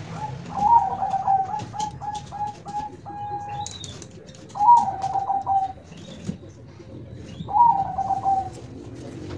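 A dove cooing: three phrases of quick repeated notes, the first long, then two short ones about a second and a half apart, with light clicks and taps behind.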